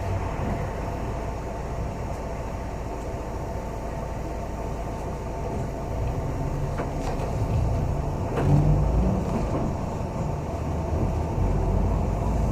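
Steady engine and road rumble heard inside a moving city bus, with a few faint rattles and a brief louder low surge about two-thirds of the way through.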